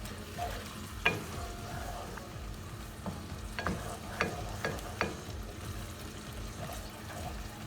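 Chicken curry sauce simmering and sizzling in a pan while it is stirred, with a utensil knocking against the pan a few times, once about a second in and several times in quick succession in the middle.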